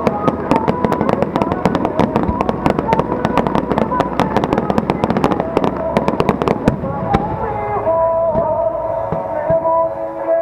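Fireworks display: a dense, rapid crackle of many small bursts that thins out after about seven seconds, with show music playing underneath that comes forward near the end.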